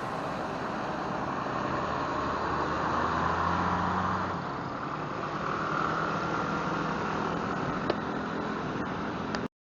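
Road traffic noise: vehicle engines running and tyre noise, with a low engine hum that strengthens a few seconds in. It cuts off suddenly near the end.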